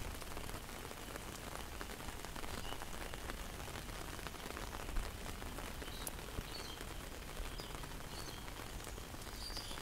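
Steady rain falling on floodwater and wet ground: an even hiss with a single faint tap about five seconds in.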